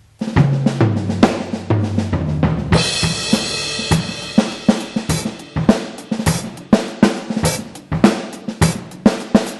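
Electronic drum kit triggering sampled acoustic drum sounds from a 2Box module, played as a groove. It opens with a fill on low, pitched drums, a crash cymbal rings out about three seconds in, and then a beat of kick, snare and hi-hat runs on.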